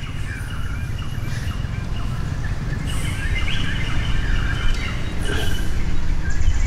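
Birds chirping, with many short sliding calls repeating over a steady low rumble.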